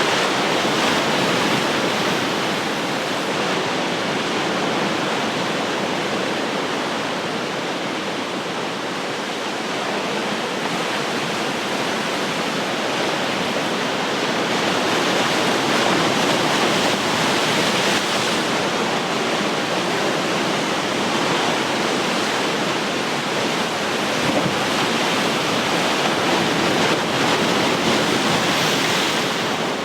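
Ocean surf: waves breaking and washing up the shore as a continuous rushing hiss. It swells and eases slowly, dipping about a third of the way in and building again past the middle and near the end.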